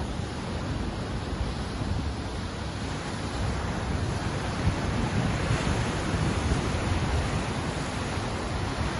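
Ocean surf: waves breaking and washing in as a steady rushing hiss that grows a little louder just past the middle.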